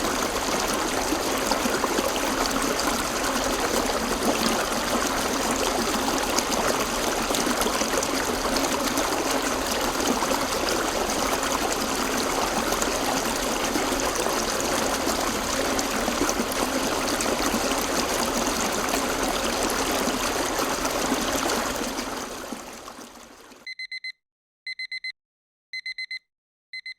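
River water flowing over rocks in a steady rush that fades out about 22 seconds in, followed by a digital timer alarm beeping four times, about once a second, as the countdown ends.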